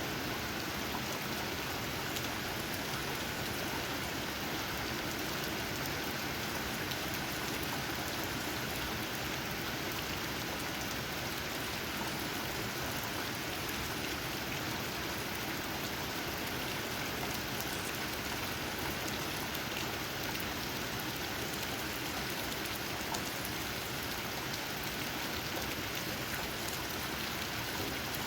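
Steady rain falling and pattering on leaves, an even hiss with scattered drop ticks.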